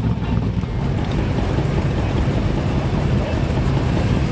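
Classic car engine running at low speed with a steady, low rumble.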